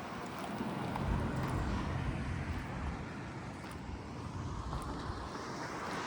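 Street traffic: cars passing with tyre and engine noise, one swelling up near the end as it approaches.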